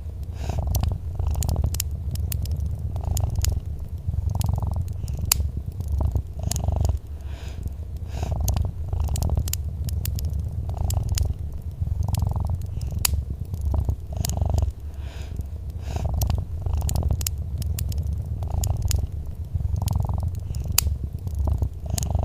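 Domestic cat purring, a low rumble swelling and easing about once a second with its breathing, over the scattered sharp crackles of a wood fire.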